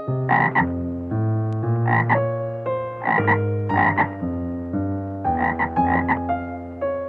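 Frog croaking repeatedly, short rough calls mostly in pairs about every second, over soft background piano music.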